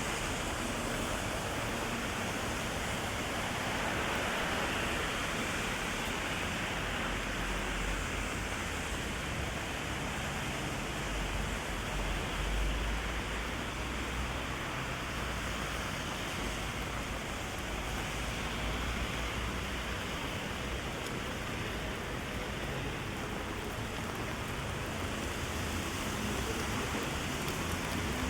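Heavy rain falling in a steady hiss, with a low rumble swelling for a few seconds around the middle.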